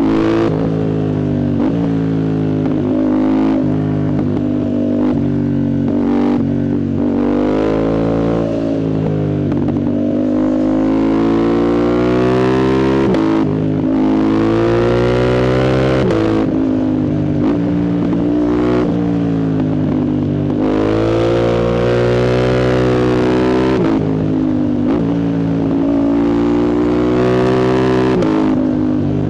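Yamaha MT-07's 689 cc CP2 parallel-twin engine, breathing through a full Arrow exhaust with the dB killer removed, pulling hard on the move. Its pitch climbs and then falls again every few seconds as the bike accelerates, shifts and rolls off.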